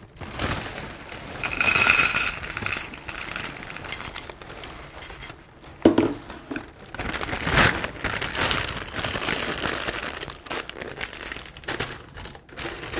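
Plastic cereal packaging crinkling and rustling in bursts, with a sharp crackle a little past halfway.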